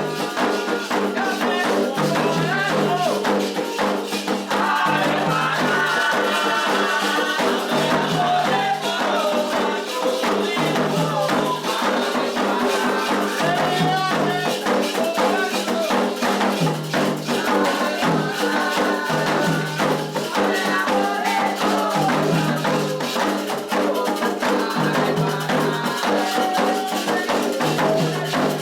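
Candomblé toque for Oxossi and Ossaim: atabaque hand drums playing a steady repeating rhythm with a rattling percussion part, under voices singing a ritual chant.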